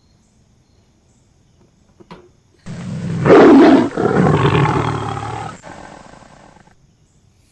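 A recorded tiger roar played back, starting abruptly: one loud roar, then a second longer one that fades away before cutting off.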